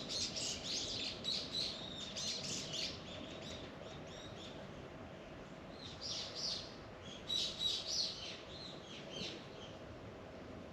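Small birds chirping in quick clusters of short, high calls, busy at the start, with a lull in the middle and a second burst later. A faint steady hum runs underneath.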